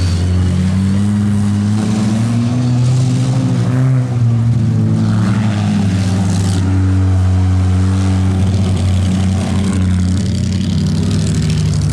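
Several compact-car engines running at once, their pitches rising and falling as they rev and ease off.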